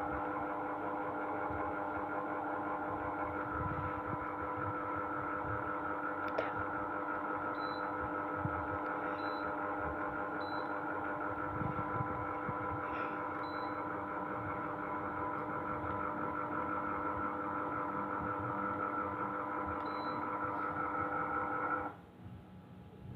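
Sharp AH-A5UCY air conditioner (a Gree-built unit) running noisily: a steady hum of several tones that cuts off suddenly near the end.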